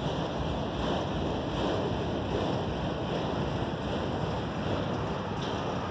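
Autorack freight cars of a Canadian National train rolling past: a steady rumble of steel wheels on the rails.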